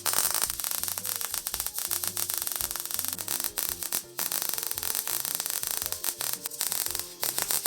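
Wire-feed (MIG) welder arc crackling steadily as a long weld bead is run, with a brief break about halfway through.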